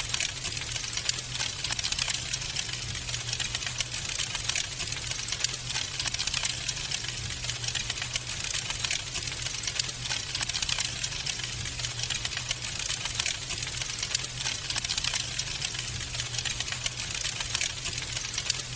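Wood fire in a fireplace crackling steadily: a dense patter of small pops with a few louder snaps, over a steady low hum.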